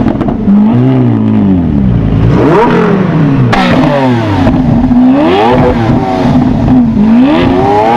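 Lamborghini Aventador V12 being revved repeatedly while stationary, its pitch climbing and dropping about five times, with a couple of sharp cracks from the exhaust between revs as it spits flames.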